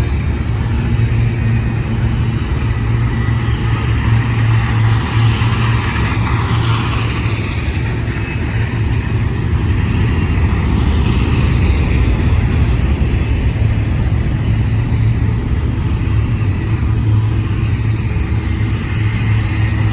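Intermodal stack container freight train rolling past close by: a loud, steady rumble of the train's wheels and cars.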